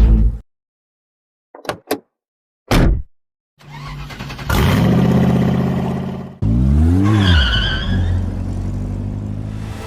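Sports car engine sound revving: a few short hits and gaps, then an engine note that builds from about four seconds in, a quick rev that climbs and falls near the middle, and a steady run after it.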